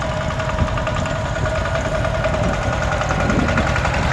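Tractor engine running steadily with an even, rapid beat.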